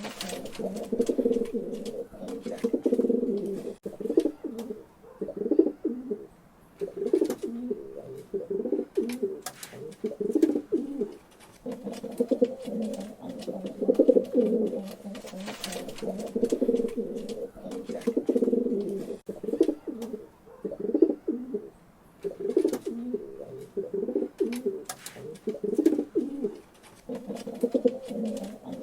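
Pigeons cooing, a run of low warbling coos repeating every second or two with barely a break, broken by scattered sharp clicks.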